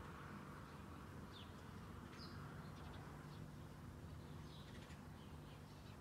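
Faint chirps from small birds, a handful of short high notes scattered through, over a low steady hum.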